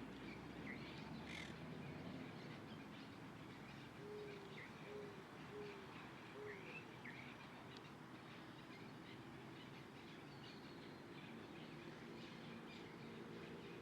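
Faint wild birds calling. A run of four short low notes comes evenly spaced from about four seconds in, with scattered brief high chirps and whistles throughout.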